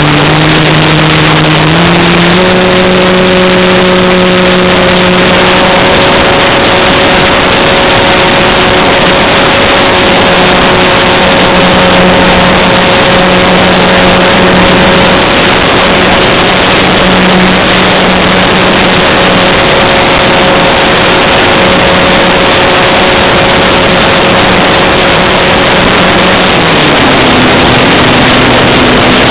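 Motor and propeller of a Hype Cessna 182 radio-controlled model plane running at a steady throttle. Its pitch steps up twice in the first couple of seconds and drops near the end, under a loud, steady rushing noise.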